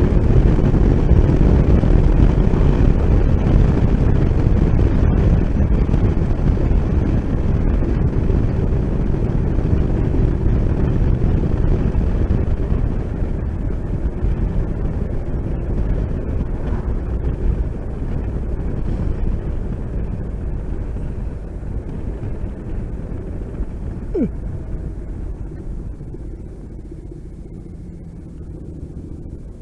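Wind rush and motorcycle engine noise while riding, dying down gradually over the second half as the bike slows. A brief falling whine sounds about 24 seconds in.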